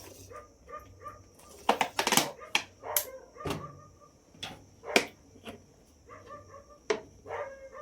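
A dog barking in short, repeated calls, with a steady high-pitched hiss underneath.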